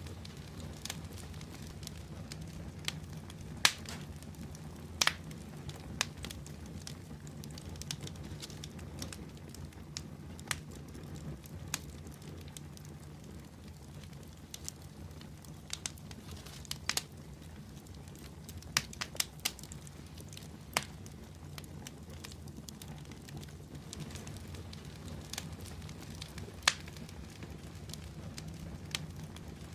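Fire in a fireplace crackling: sharp, irregular pops and snaps, a few much louder than the rest, over a low steady rumble of the flames.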